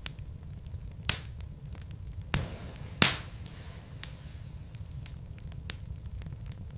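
Wood logs burning in a fireplace, crackling with a steady low rumble and many small ticks. Three sharp pops stand out, about a second in and twice more around two to three seconds in, the last the loudest.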